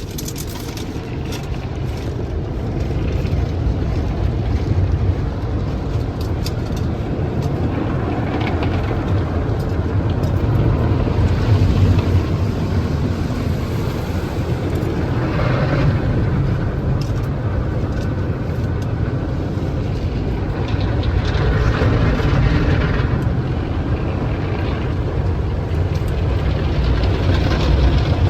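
Automatic tunnel car wash working over the car, heard from inside the cabin: a steady low rumble with a rushing wash noise that swells and fades several times.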